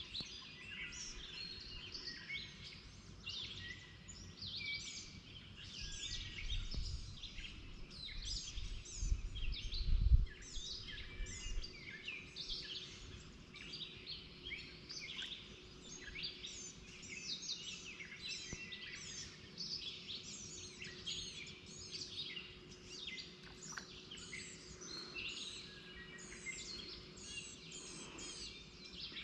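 Several songbirds singing at once, a dense run of overlapping chirps and trills. A low rumble rises and peaks about ten seconds in, and a faint steady hum sits underneath throughout.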